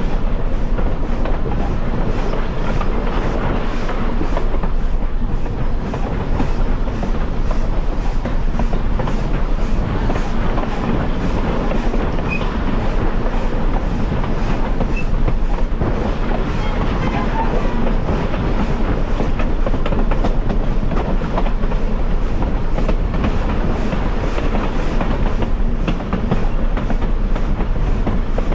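Steam-hauled excursion train rolling along the track: a steady rumble of steel wheels on rails, with regularly spaced clicks running through it.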